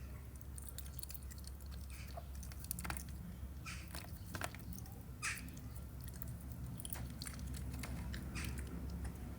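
An animal chewing and biting food, with irregular short wet clicks and crunches over a steady low hum.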